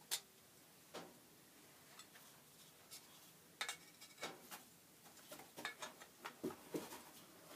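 Faint, scattered clicks and light metallic clinks of a steel plane iron and its cap iron being handled and set together, a few more of them in the second half.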